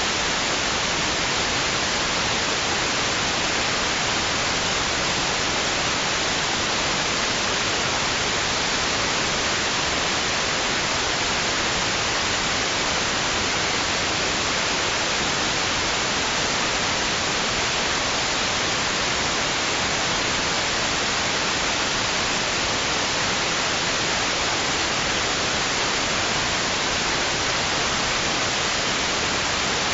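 Steady white noise: an even, unchanging hiss, brightest in the upper range, with no swells or breaking waves.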